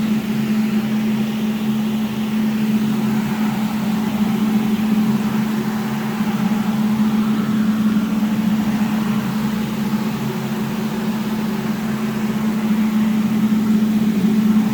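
Electric fan running steadily: a strong, even hum with a rush of air, drawing air up the fireplace's chimney pipe.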